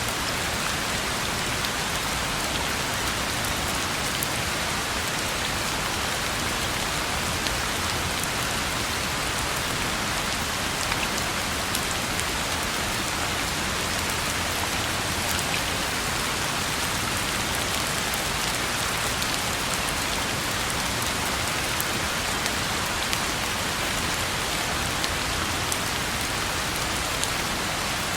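Steady rain falling on a road, a constant hiss of rainfall with many small drop ticks.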